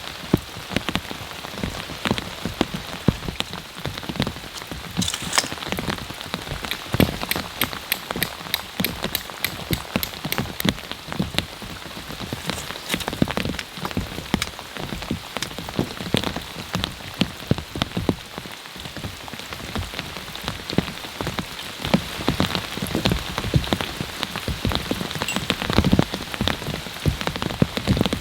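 Heavy rain pouring down, with dense, irregular drops hitting a surface close by.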